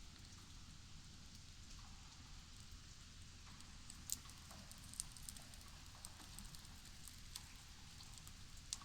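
Wood campfire crackling faintly, with a few sharp pops.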